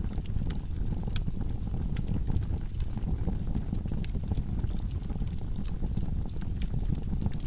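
Wood fire burning in a fireplace: logs crackling and popping with many irregular sharp snaps over a steady low rumble of flames.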